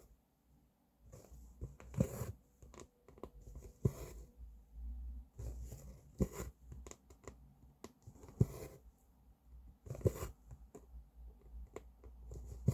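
Cross-stitch needle and thread being worked through fabric: a sharp tick followed by a short rustling swish about every two seconds as each stitch is pushed through and the thread drawn tight.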